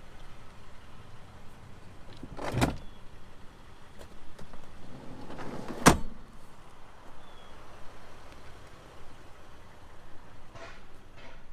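Minivan door being worked: a clunk about two and a half seconds in, then a short swelling movement that ends in a loud, sharp latching shut about six seconds in, and two faint clicks near the end.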